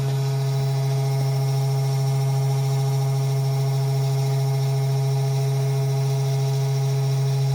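Mini desktop CNC router running, its 12-volt spindle motor giving a loud, steady low hum with fainter higher tones above it.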